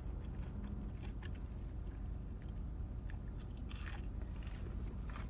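A person chewing a bacon cheeseburger close to the microphone, with scattered soft crunches and mouth clicks, the loudest about four seconds in, over a steady low rumble.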